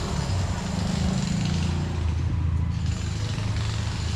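Steady low rumble of motor traffic, with an even hiss above it.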